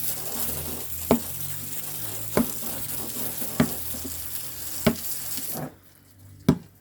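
A basketball bouncing on hard ground five times at an even pace, about once every second and a quarter, over a steady hiss that stops suddenly near the end.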